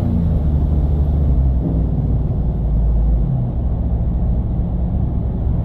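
Cammed Chevy Silverado V8 and its exhaust droning low and steady inside the cab while driving.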